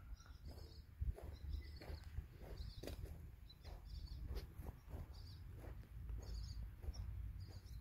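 Small birds chirping in short, repeated bursts, over a steady low rumble.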